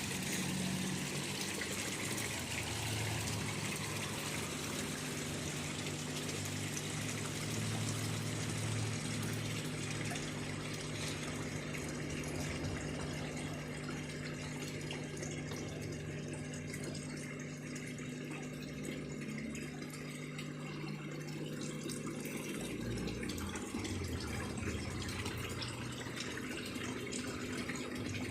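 Water rushing and splashing steadily, with a low steady hum of a water pump underneath.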